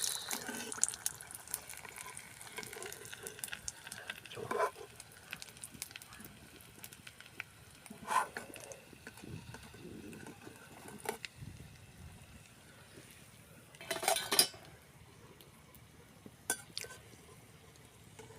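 Metal utensil clinking and scraping against a cooking pot, with scattered louder knocks over a faint sizzle of frying oil.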